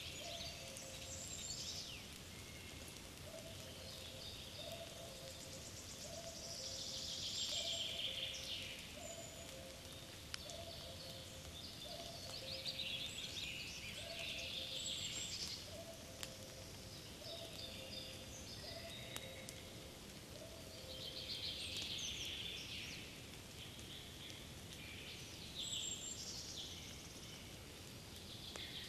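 Forest ambience in spring: songbirds singing in repeated high phrases every few seconds, over a low two-note hooting call repeated about once a second that stops about two-thirds of the way through.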